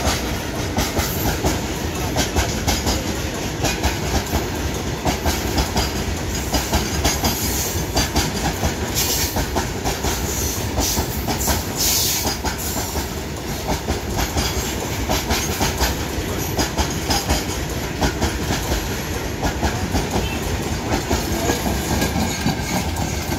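A long Indian Railways freight train of covered goods wagons passing close by, its wheels clattering over the rail joints in a steady, loud clickety-clack.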